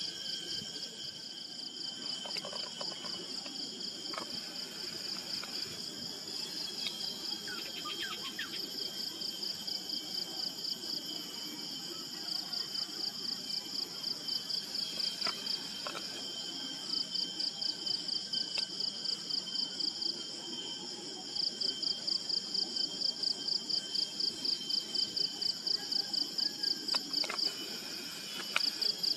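Insects chirping in a high-pitched, rapid, even pulse, in bouts that get louder in the second half, over a steady high insect drone.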